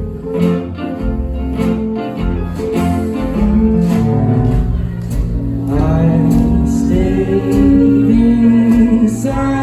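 Live band music: a short instrumental passage of the song, then a singer comes in again about six seconds in, starting the next verse.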